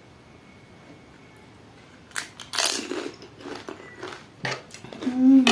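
Crisp pani puri shells crunching between the teeth and being chewed, in irregular bursts starting about two seconds in. A brief hummed sound near the end.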